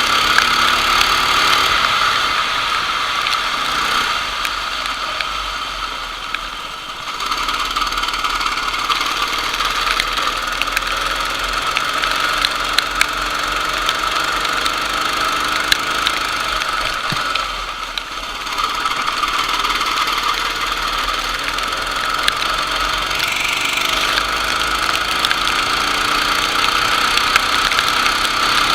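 Racing kart engine running hard, its pitch rising and falling with the throttle. It drops off twice as the driver lifts, then climbs back up to speed.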